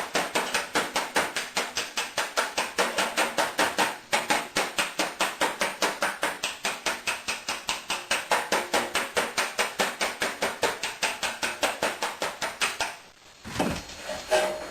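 Small body hammer tapping out a dent in a car's sheet-metal panel, with a dolly bit pressed against the dent from the other side. It strikes light, even blows at about five a second, pauses briefly about four seconds in, and stops a second or so before the end.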